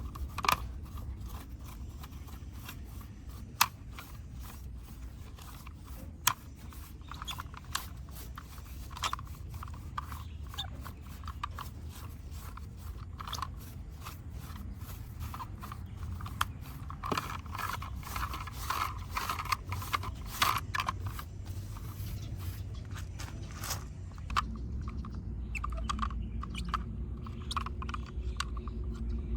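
Crunching and scraping of caked mud being worked off a diecast model car, with many irregular sharp clicks and crackles. Near the end the crackling thins out and a low rumble is left.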